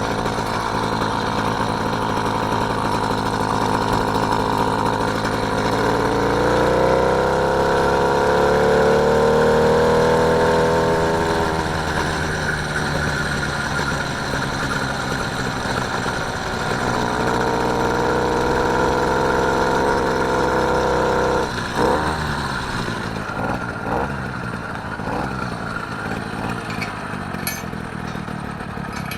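Small engine of a motorised bike running under way. Its pitch rises over a few seconds and falls back, then holds steady. About three-quarters of the way through, the revs drop suddenly and the engine runs lower and more unevenly.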